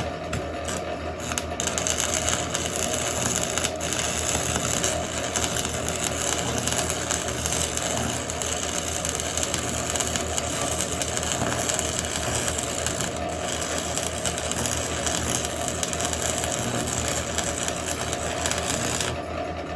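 Stick (flux-coated rod) arc welding: a steady, loud crackle of the arc. It starts about a second and a half in and stops shortly before the end, over a steady low hum.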